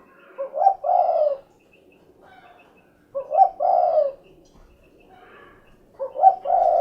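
Spotted dove (derkuku, tekukur) cooing: three phrases about three seconds apart, each a couple of short notes running into a longer coo, the "cukurukuk kuk geruk" call.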